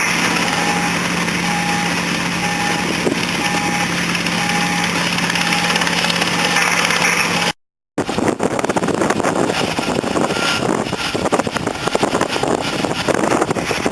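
An engine running steadily with a constant low hum and a faint beep repeating about once a second, then, after a cut, a rougher stretch of engine and wind noise.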